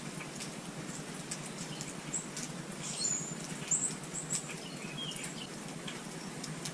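Small songbirds at a feeder giving short, high chirps several times a second, with scattered light clicks and tapping.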